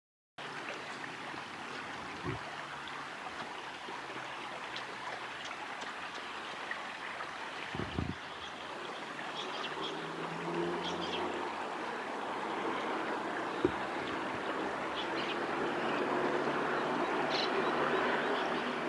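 Steady rush of flowing river water, with a few faint, short, high chirps and a couple of brief low knocks.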